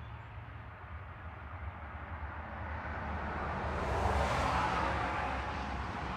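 A vehicle going by: a rushing noise swells from about two and a half seconds in, peaks a little past the middle and eases off, over a steady low rumble.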